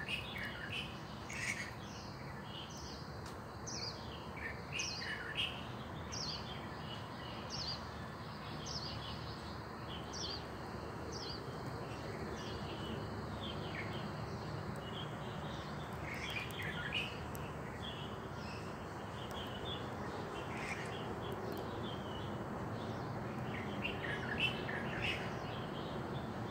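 Small birds chirping: many short, quick chirps that sweep downward in pitch, coming thick and fast in the first dozen seconds, more scattered after, and bunching again near the end, over a steady low background noise.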